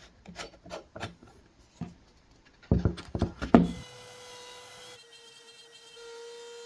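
A run of wooden knocks and clatter, loudest about three seconds in, then a steady high-pitched whine of a router motor running.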